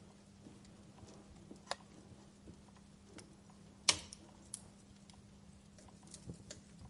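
Wood fire burning in a fireplace, the logs crackling with scattered sharp pops, the loudest a little over halfway through. A faint steady low hum runs underneath.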